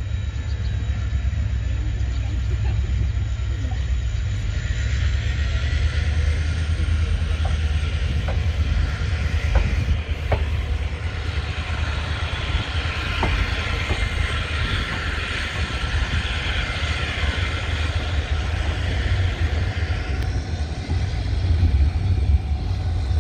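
ICF passenger coach running on the rails as the train pulls out and gathers speed: a steady low rumble with a few sharp wheel clacks near the middle and a hiss that swells for several seconds after them, heard through an open coach window.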